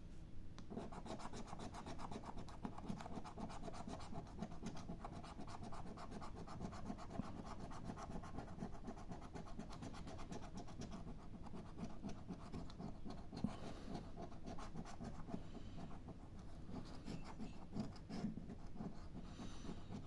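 A coin scratching the latex coating off a scratch-card lottery ticket in quick repeated strokes, starting about a second in and running on with short pauses.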